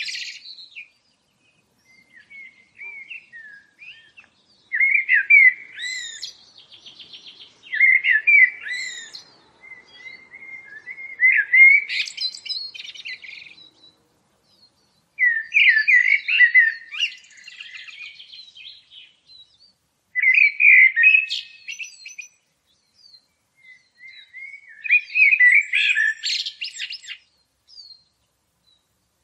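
A songbird singing warbled phrases of a second or two, with quick trills, repeated about every four seconds with quiet pauses between.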